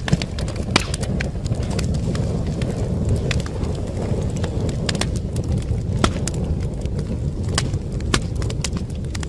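Wood fire burning in a fireplace: a steady low roar of flames with irregular sharp crackles and pops from the burning logs.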